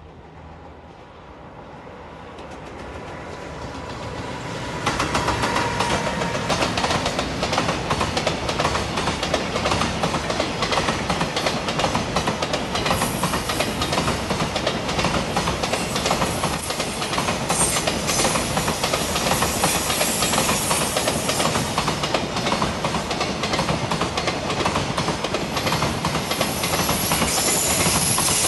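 Freight train hauled by a JR Freight EF210 'Momotaro' electric locomotive passing close by. A rumble grows over the first five seconds, then turns into the steady rolling and clickety-clack of container wagons over the rail joints.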